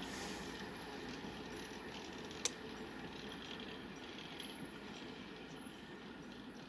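Fading rumble of an EMU local train moving away after passing, slowly dying down, with one sharp click about two and a half seconds in.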